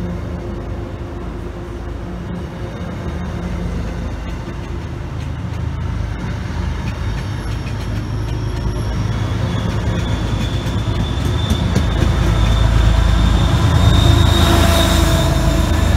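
A train approaching and passing, its deep rumble growing steadily louder through most of the clip. From about two-thirds of the way in, a thin high wheel squeal rides on top.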